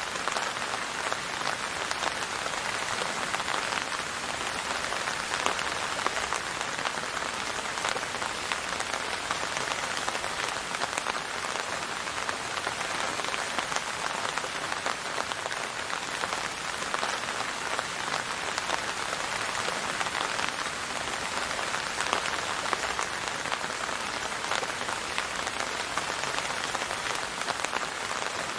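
Steady rain: an even hiss dotted with a dense patter of individual drops, holding constant throughout.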